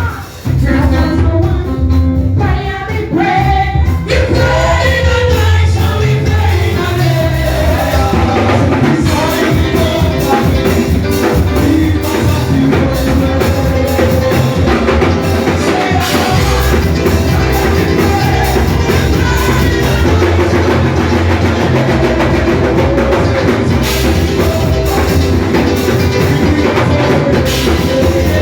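Church worship music: singing over a band with a drum kit keeping a steady beat.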